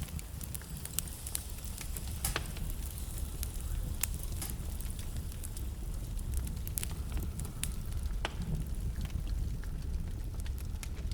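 Wood fire in a fireplace crackling, with scattered sharp pops and snaps over a steady low rumble of the flames; a few louder pops stand out.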